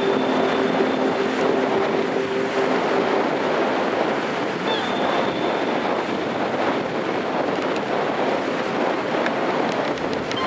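Strong wind blowing, a steady rushing noise, with a faint low hum that fades out in the first couple of seconds.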